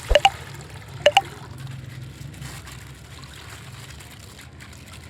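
Coloured water trickling and dribbling out of a plastic ice-pack bag as it is popped, with two pairs of sharp clicks in the first second or so.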